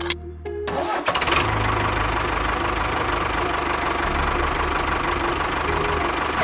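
A small motor starts about a second in and runs steadily with a dense, even buzz.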